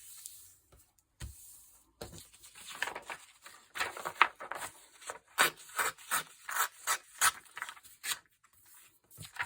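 Paper being rubbed or scraped by hand in a run of quick rasping strokes, about two to three a second, growing stronger after a few seconds and stopping near the end.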